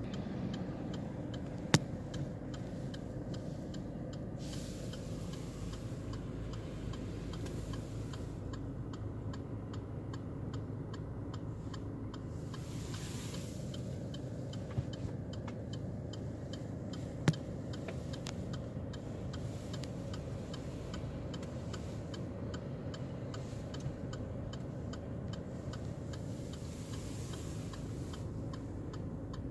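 Fast, regular mechanical ticking over a steady low rumble, with a few single sharp clicks, the loudest about two seconds in and again past halfway.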